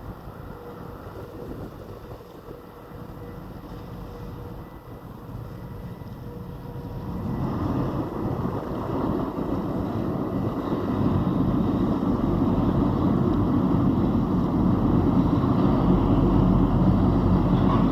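Car ferry's engines running as it comes into port, growing steadily louder from about seven seconds in, with wind buffeting the microphone.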